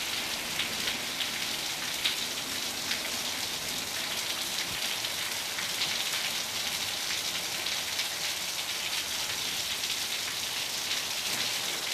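Heavy rain pouring steadily onto a street and the surfaces around it: a dense, even hiss with faint scattered drop ticks.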